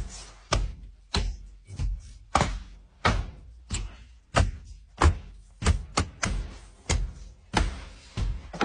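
A run of sharp knocks and thuds, about one or two a second.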